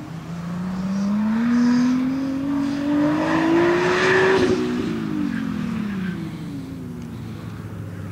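Nissan GT-R's twin-turbo V6 accelerating hard on an autocross run. The engine note rises steadily for about four seconds, then falls away as the car goes past and pulls off into the distance.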